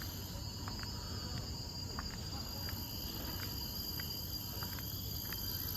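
Steady high-pitched insect drone of tropical forest crickets or cicadas, several tones held at once, with faint irregular ticks of footsteps on the path.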